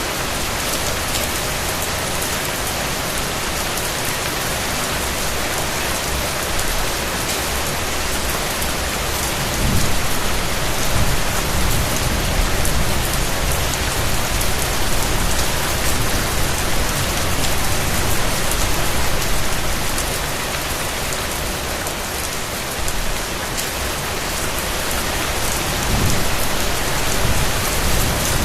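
Steady rain falling, a dense even hiss of raindrops. A low rumble swells up about ten seconds in and again near the end.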